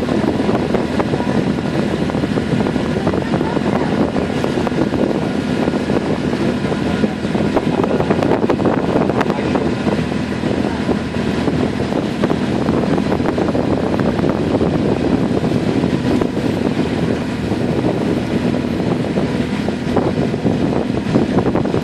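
Small passenger water taxi's engine running steadily under way, a constant drone with a faint steady hum, with wind on the microphone.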